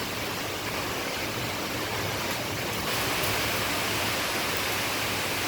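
Rain falling, a steady hiss that grows a little louder about three seconds in.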